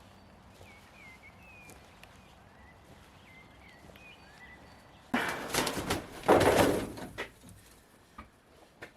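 Small birds chirping faintly, then about five seconds in a loud burst of rustling, scuffling noise lasting about two seconds, followed by a couple of sharp knocks.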